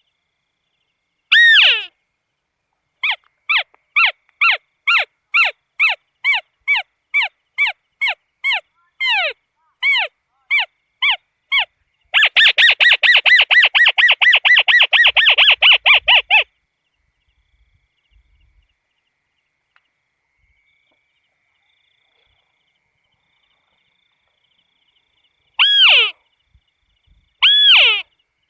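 Crake (burung tikusan) calling: loud single downward-sliding notes, repeated a few times a second and speeding up into a fast rattling trill of about four seconds. After a pause of about ten seconds, two more single notes come near the end.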